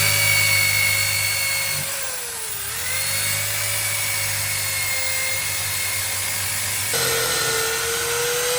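Electric power tool motor running with a steady whine over a low hum. Its pitch sags briefly about two and a half seconds in as it bites into the work, then recovers.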